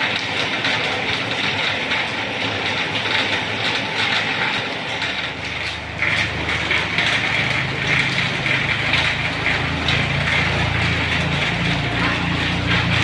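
Steady hiss of heavy rain on a flooded street. About six seconds in, a vehicle engine's low running sound joins it and continues.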